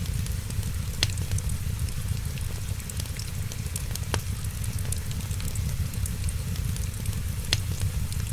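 Wood fire in a fireplace crackling, with three sharper pops about a second, four seconds and seven and a half seconds in, over a steady low rumble and hiss.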